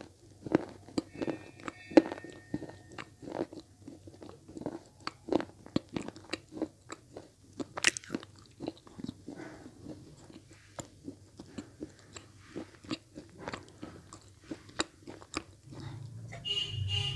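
Close-miked chewing of red slate blocks: a steady run of sharp, dry crunches, about two to three a second.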